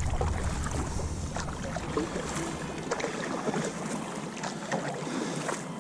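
Water splashing and lapping, with small irregular knocks and some wind.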